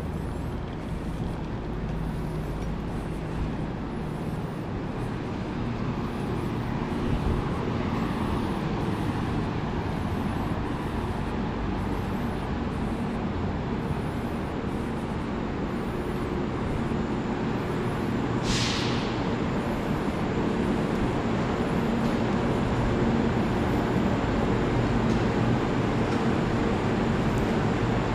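Steady low hum of a standing VR double-decker InterCity train, growing louder toward the end, with one short hiss of air about two-thirds of the way through.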